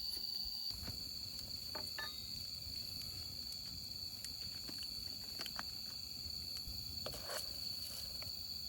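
Crickets chirring in a steady, continuous high tone, with a few scattered light clicks and knocks.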